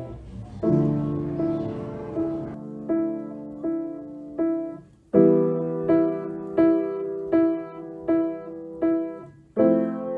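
Background piano music: a gentle piece of repeated struck notes over sustained chords, in a slow, even pulse.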